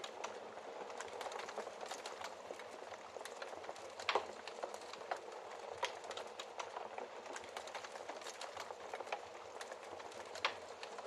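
Wood fire crackling in a fireplace: a steady soft hiss of burning with many small irregular pops and snaps. The loudest pop comes about four seconds in and another sharp one near the end.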